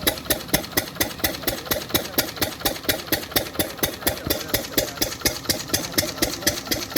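14 hp Lister-type double-flywheel diesel engine running steadily, each firing stroke an even, sharp knock in a regular rhythm.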